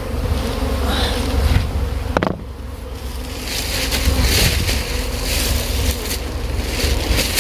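A disturbed honeybee colony buzzing steadily around its exposed comb, with a low wind rumble on the microphone and a brief knock about two seconds in.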